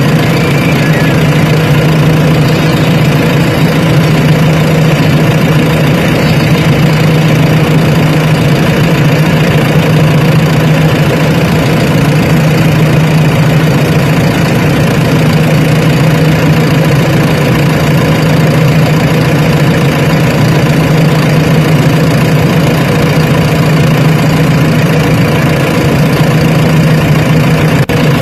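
Diesel engine of the earthmoving machinery running steadily at an unchanging speed, loud and close, with no revving.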